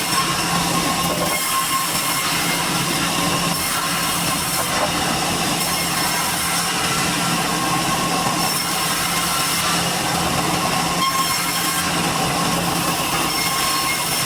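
Sawmill saw running steadily through durian wood, a constant loud machine noise with a low hum and steady high whines over it.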